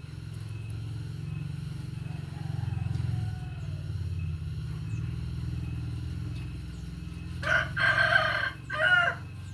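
A rooster crowing near the end, one long harmonic-rich crow followed by a short final note, over a steady low hum.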